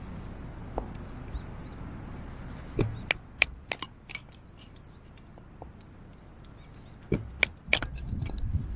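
A few sharp clicks and knocks, bunched in two clusters about three seconds in and again near the end, over a steady low background hiss.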